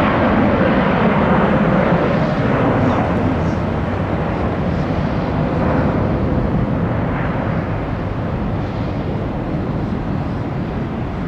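Jet airliner climbing out after takeoff, its engines a loud steady roar that slowly fades as it flies away.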